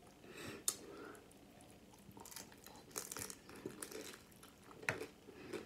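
Close-miked eating: chewing on a crunchy nacho cheese taco shell, with scattered sharp crunches and crackles, the loudest about a second in and near the end.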